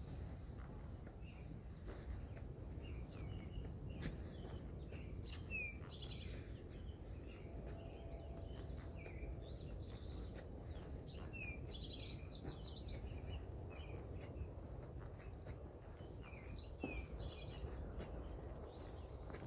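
Several wild songbirds chirping and calling in short, high notes throughout, with a quick trill about twelve seconds in, over a steady low rumble.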